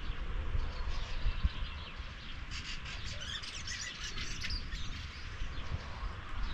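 Small songbirds chirping in a quick burst of high notes about midway, over a steady low rumble with a few dull low thumps.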